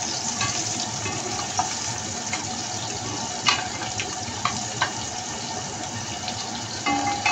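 Onions, garlic and ginger sizzling in hot oil in a pot with a steady hiss, stirred with a wooden spatula that knocks against the pot a few times.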